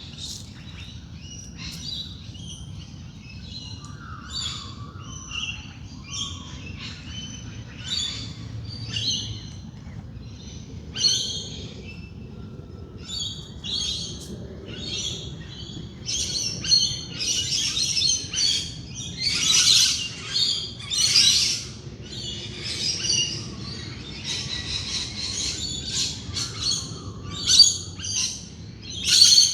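Dawn chorus of many wild birds chirping and calling over one another, growing busier and louder about halfway through.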